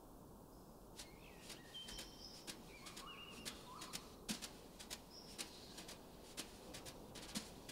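Sparse bird chirps over faint courtyard ambience, with many irregular sharp clicks or taps scattered throughout.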